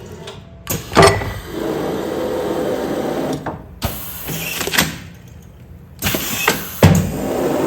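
Commercial food-container sealing machine cycling: a sharp mechanical clunk, then a steady motor whir as it runs, with the cycle repeating about six seconds later.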